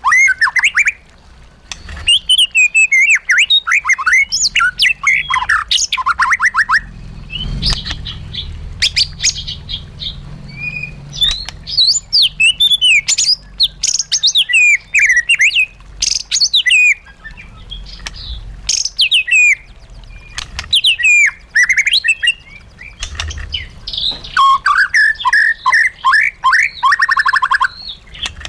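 White-rumped shama singing a long, varied song: loud whistled phrases, sliding notes and fast trills, in bursts separated by short pauses.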